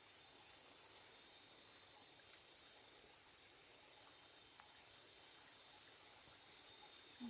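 Faint, steady, high-pitched insect trill, which breaks off about three seconds in and resumes about a second later.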